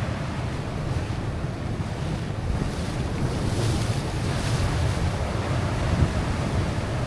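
Wind buffeting the microphone with a steady low rumble, over sea waves washing against the rocks, their hiss swelling a few seconds in.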